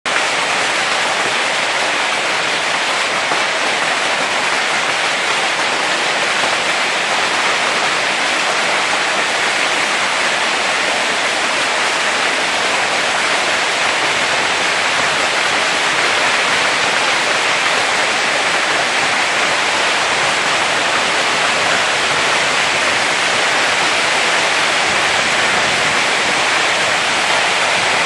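Hailstorm: hail and heavy rain coming down thickly, a loud, dense, steady hiss with no break.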